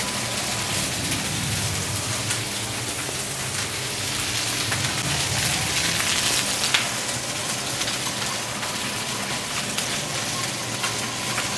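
Chicken pieces frying in oil in a large paella pan: a steady sizzling hiss with small crackles.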